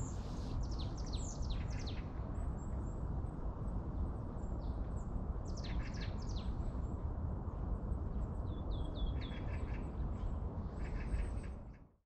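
Small songbirds chirping in several short bursts of quick, falling notes, over a steady low rumble. The sound cuts off near the end.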